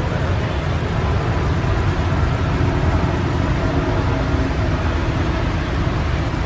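Heavy rain pouring steadily: a dense, even hiss with a low rumble underneath.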